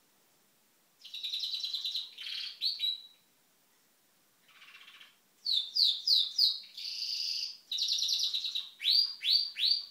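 Pet bird singing in two bouts: rapid trills and quick repeated sweeping notes, high-pitched, with a short pause between bouts.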